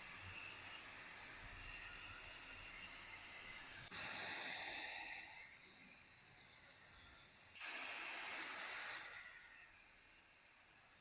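A steady hiss in three joined stretches, each cut off sharply and replaced by the next about 4 and 7.5 seconds in; the second and third start louder and fade a little.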